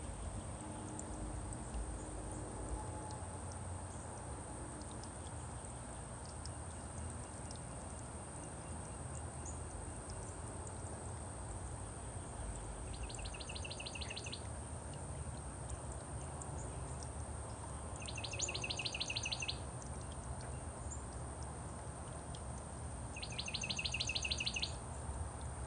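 A small songbird singing a fast, even trill of rapidly repeated high notes three times, each about a second and a half long and about five seconds apart, over a steady low outdoor rumble.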